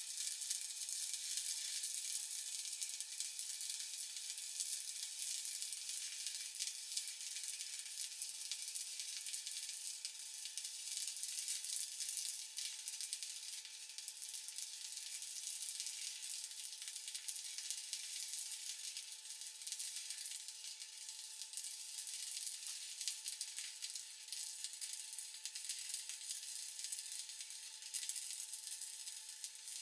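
Stick welding arc crackling and sizzling steadily as an electrode burns while a bead is run, with a faint steady tone underneath.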